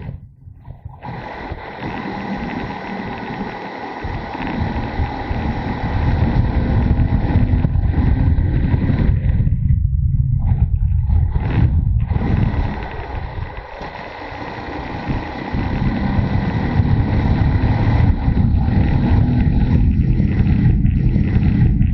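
Motorcycle engine running under way, with wind rushing over the microphone. The sound eases off about ten seconds in and rises again a few seconds later.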